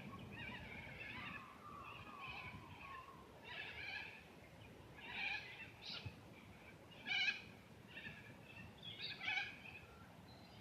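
Birds calling outdoors: short calls repeat every second or two, with a few thin falling notes in the first few seconds.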